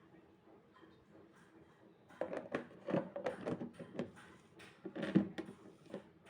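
Quiet at first, then from about two seconds in a busy run of light knocks and clatters.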